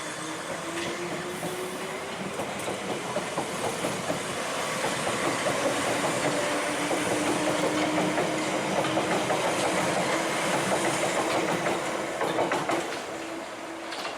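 A tram running on its rails: wheels clattering over the track with a steady motor whine, growing louder over the first few seconds and easing off near the end.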